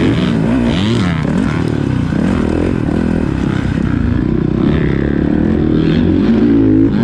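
Dirt bike engine revving up and falling back again and again as the rider works the throttle, with the pitch climbing higher near the end.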